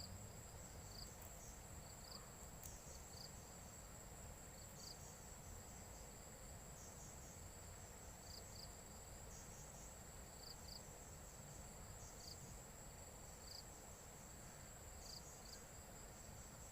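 Insects chirping in the background: a steady high thin trill with short chirps repeating every second or two.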